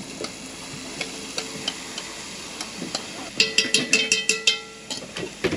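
Blended onion, garlic, chili, carrot and celery sizzling as they are scraped into hot olive oil in a cast-iron camp oven. About three and a half seconds in, a metal spoon clinks rapidly against the bowl several times.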